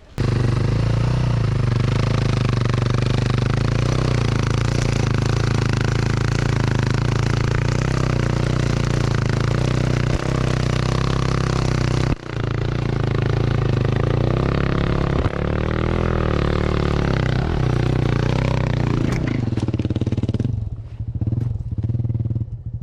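Dirt bike engine running steadily at low revs under load, towing a broken-down motorbike on a rope through sand. The sound breaks off briefly about halfway through and fades away near the end.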